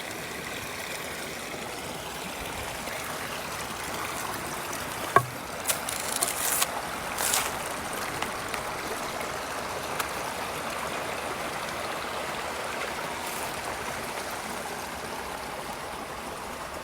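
A brook running steadily over its bed, with a few short clicks and crackles about five to seven seconds in.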